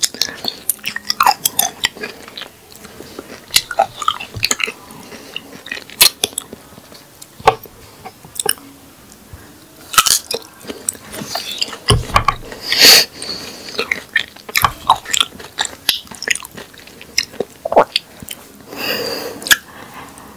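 A raw Opuntia (rabbit ear) cactus pad being bitten and chewed: many short, sharp crunches in a row, with a few longer, heavier chewing sounds about twelve seconds in and near the end.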